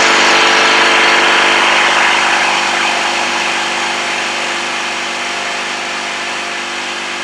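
Electric air compressor running: a steady motor-and-pump hum under a loud hiss, easing slightly in level as it goes.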